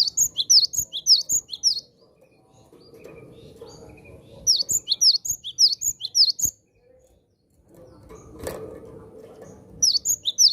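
Cinereous tit (gelatik batu) singing in three quick bursts of sharp, falling whistled notes, about seven a second, with pauses of a few seconds between. A single knock sounds about eight seconds in.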